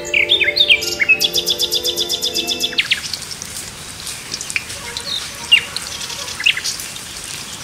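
Birds chirping: a quick series of falling chirps and a rapid trill over a sustained low tone that cuts off about three seconds in, then a steady hiss with a few scattered single chirps.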